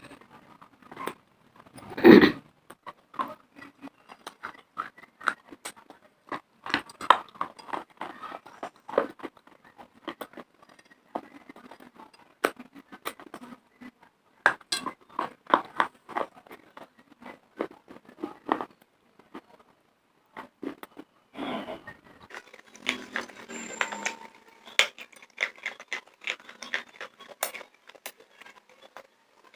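Close-miked crunching and chewing of dry baked clay pot pieces and chalk: a run of irregular sharp crackles, with one loud crack about two seconds in as a piece is bitten off.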